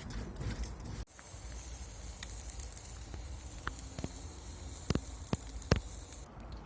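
A steady high hiss with a few sharp pops, starting suddenly about a second in and stopping shortly before the end.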